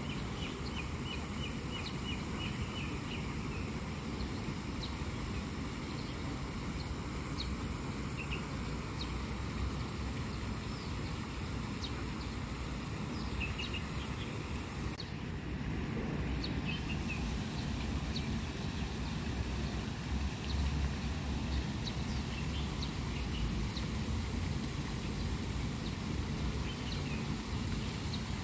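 Small birds chirping in quick series of short, high notes, heard several times over a steady low rumble of outdoor background noise.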